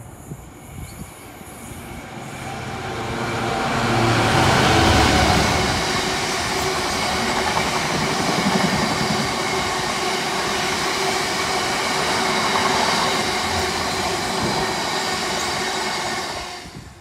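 A freight train passing through at speed. It builds to its loudest about four to five seconds in as the head of the train goes by, then a long rake of open box wagons rumbles and clatters past steadily. The sound cuts off suddenly near the end.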